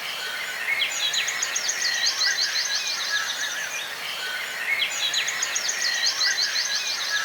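Birds singing: runs of rapid high chirps, starting about a second in and again near five seconds, over lower warbling notes.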